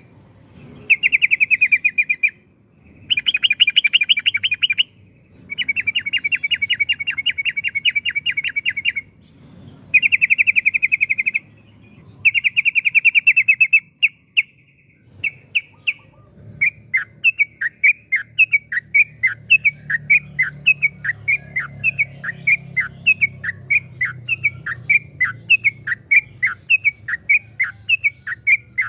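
Yellow-vented bulbul song: loud, fast rattling trills, the rapid 'ropel' runs, in bursts of one to three seconds. About halfway through these give way to a steady string of short downward-slurred notes, around three a second.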